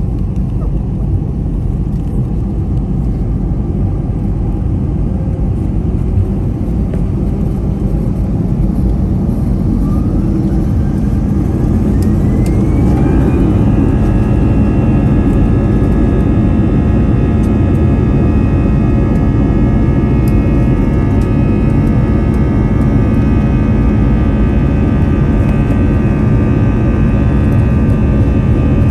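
Airbus A320's twin jet engines heard from inside the cabin, running with a steady rumble, then spooling up for takeoff: a whine rises in pitch about a third of the way in, and the engines settle into a louder, steady high whine with a deep roar beneath.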